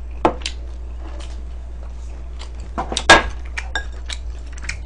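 Tableware clinking during a meal: a scattering of sharp clicks and taps of utensils against dishes, the loudest a short cluster about three seconds in, over a low steady hum.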